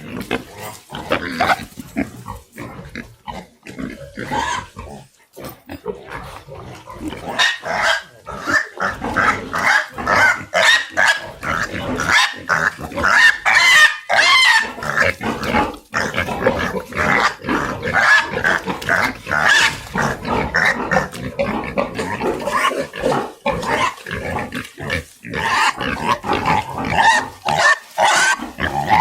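Pigs calling: a dense run of short, overlapping high squeals with lower grunts beneath, sparser at first and nearly continuous from about seven seconds in.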